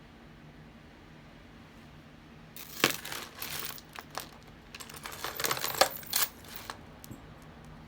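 A plastic bag crinkling and small metal jewelry pieces clinking as they are handled, in two spells of crackling with sharp clicks, starting about two and a half seconds in.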